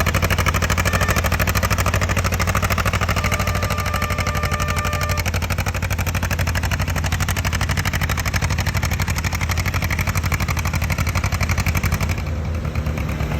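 Stroked John Deere pulling-tractor engine running loud and steady, a rapid, sharp, even train of exhaust pulses. Near the end the sound drops back slightly.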